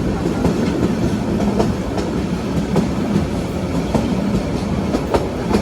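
Train running along the track: a steady rumble with irregular clicks as the wheels pass over rail joints.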